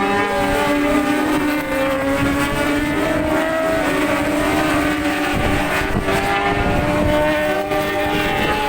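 600cc supersport racing motorcycles running at speed around the circuit, several engine notes overlapping and sliding up and down in pitch. Wind buffets the microphone underneath.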